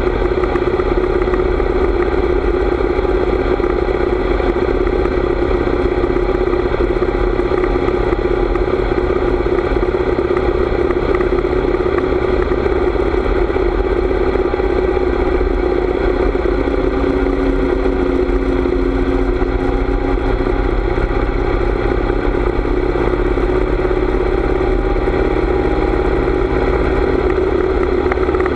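Harley-Davidson motorcycle's V-twin engine running steadily under way, with a low rumble underneath and a slight change in engine pitch about midway.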